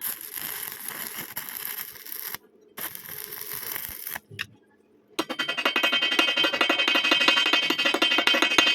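Stick welding arc, crackling and hissing in short runs with pauses between them. The longest run starts about five seconds in and is a dense, fast crackle.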